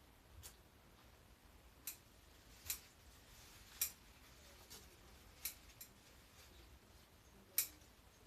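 Garden pruning shears snipping through stems and branches: about seven sharp, separate snips at an uneven pace, one every second or so.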